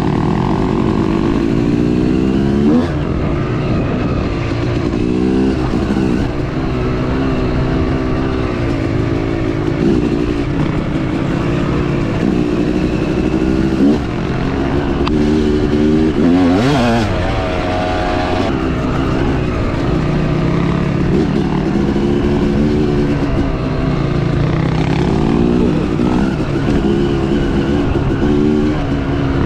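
Dirt bike engine under load, revving up and dropping back repeatedly as it shifts and throttles through the trail, every few seconds.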